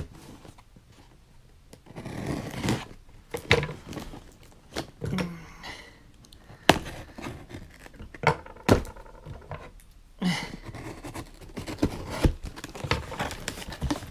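A shipping package being cut open and unpacked: tape and packing scraping, tearing and crinkling, with a few sharp knocks and clicks in the middle.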